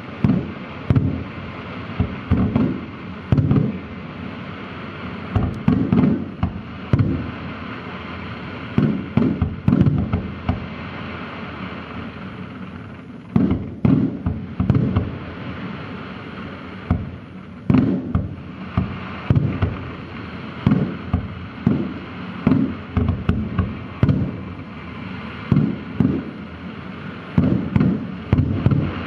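Aerial firework shells bursting in rapid, irregular succession, one boom every half second to a second, over a steady hiss. There is a short lull near the middle, then the bursts pick up again.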